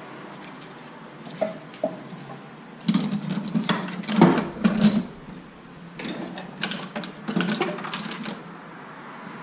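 Metal hand tools being rummaged through and handled, with irregular clatter and clicks in two busy spells.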